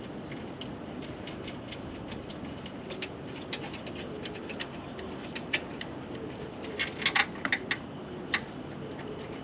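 Scattered light clicks and ticks over a steady low hum, with a short cluster of sharper clicks about seven seconds in.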